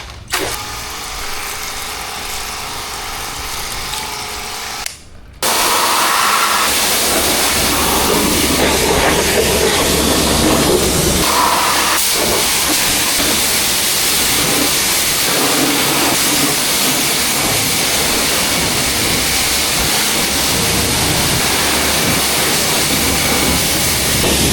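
Steady hiss of a high-pressure water spray on a car's body, quieter for the first five seconds, then louder and continuous.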